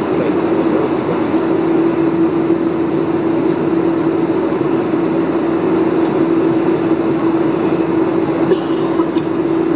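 Steady cabin noise inside a Boeing 747-400 on the ground: a constant drone with a steady low hum running through it.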